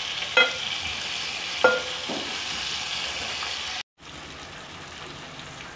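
Tandoori-marinated chicken pieces sizzling in butter and oil in a heavy aluminium pan. A metal spoon clinks against the pan twice in the first two seconds as the pieces are turned. The sound drops out briefly a little under four seconds in, and the sizzle comes back quieter.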